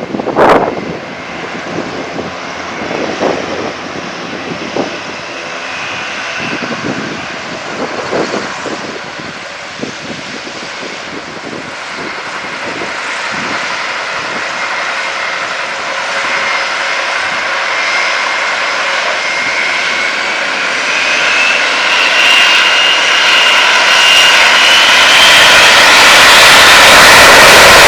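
Four-engine turboprop military transport aircraft running, growing steadily louder as it comes closer, with a whine that rises in pitch near the end. A short knock about half a second in.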